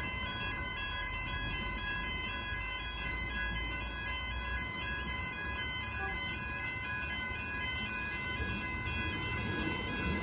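Railway level crossing warning bell ringing steadily, an electronic two-tone pattern alternating about three times a second, over a low rumble.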